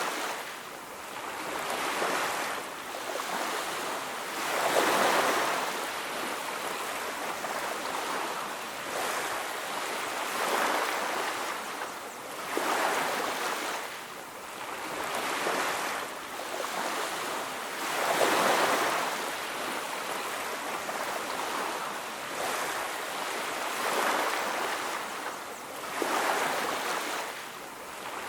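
Ocean surf on a beach: waves washing in and breaking in swells every few seconds, with a steady rushing hiss of water between them.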